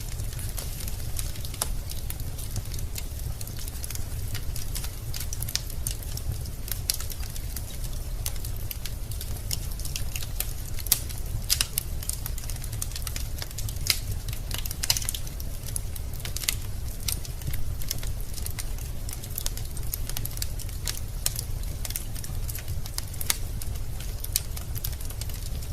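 Wood fire burning in a fireplace: logs crackling with frequent irregular snaps and pops, a few sharper ones standing out, over a steady low rumble.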